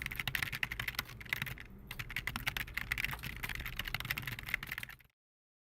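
Computer keyboard typing: a fast, dense run of key clicks with a short pause a little before two seconds in, cutting off abruptly about five seconds in.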